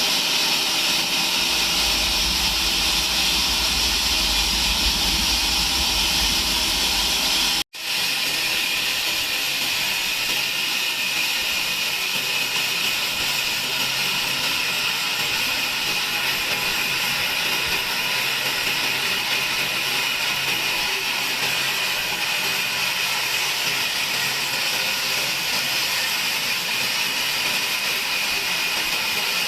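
Sawmill bandsaw machinery running with a steady, loud hissing noise. It breaks off for an instant about eight seconds in, then carries on without the deep hum heard before the break.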